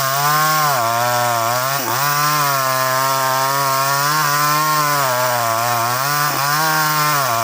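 Two-stroke chainsaw running at high revs, bucking a felled sengon (albizia) log; the engine pitch dips briefly a few times as the chain bites into the wood under load.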